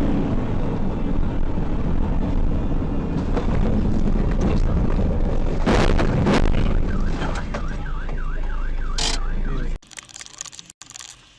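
Loud, steady rumble of a vehicle on the road, with a few sharp knocks about six seconds in. Then an electronic alarm or siren tone wavers quickly up and down, about four times a second, for a couple of seconds before the sound cuts off suddenly near the end.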